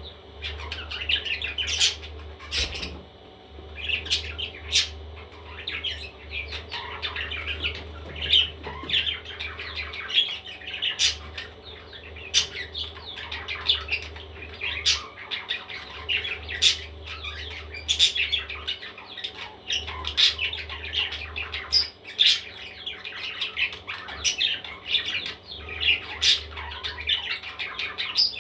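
Baby parrots chattering and squawking without a break, a dense mix of short begging calls with sharp squawks every second or so.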